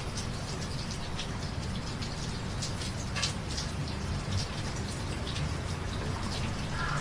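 Steady rain falling, with individual drops tapping at irregular moments.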